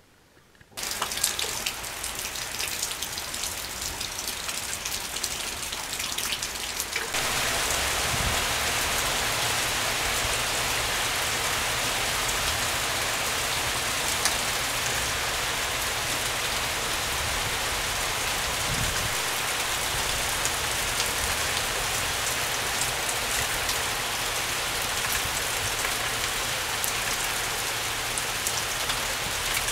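Heavy rain pouring down: a dense, steady hiss that starts about a second in and gets louder about seven seconds in.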